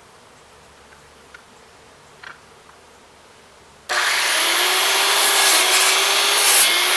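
A power saw starts suddenly about four seconds in and runs steadily, cutting wood.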